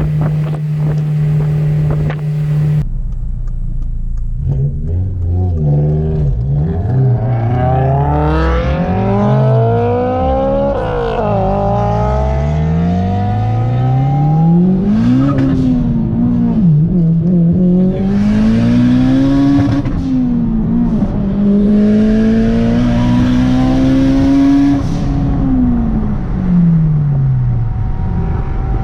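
Honda S2000's four-cylinder VTEC engine under hard acceleration: after a few seconds of steady running with wind noise, the engine pitch climbs, drops at each gear change and climbs again several times, with a long pull toward the end before it eases off.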